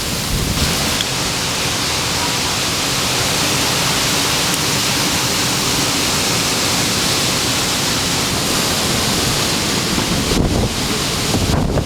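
Storm wind blowing hard in a windstorm, a steady dense rush, with gusts buffeting the microphone in low rumbles near the end.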